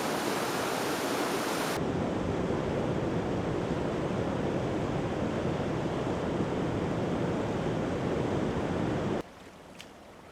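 Rushing floodwater: a steady, loud noise of flowing water that changes slightly in tone about two seconds in and cuts off suddenly near the end, leaving a quiet background with a few faint ticks.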